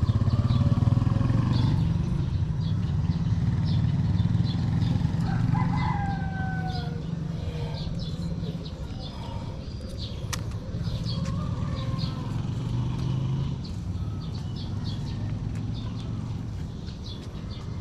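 A rooster crowing, its call falling in pitch about six seconds in, over a steady low engine drone.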